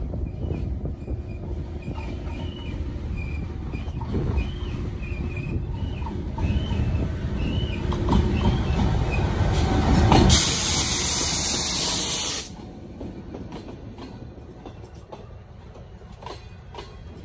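Pakistan Railways diesel locomotive drawing into the station, its low engine rumble building as it approaches. A loud hiss lasts about two seconds as it passes and cuts off sharply. Then the coaches roll by more quietly, their wheels clicking over the rail joints.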